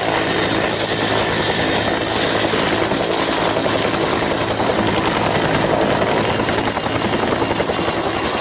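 Helicopter engine and rotor noise: a steady, dense rushing sound with a thin high whine held throughout, starting abruptly.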